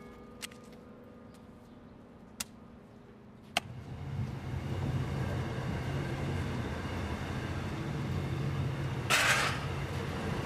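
A few faint clicks over near quiet, then, about three and a half seconds in, the steady noise and low drone of a passenger train running, heard from inside the carriage. A brief louder burst of noise comes near the end.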